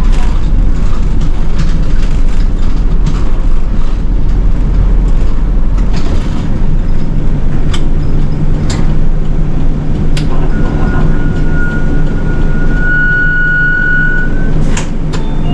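City bus running, heard from inside: a loud, steady low engine and road rumble with scattered clicks and rattles. From about ten seconds in, a steady high-pitched tone sounds for about four seconds, growing louder before it stops.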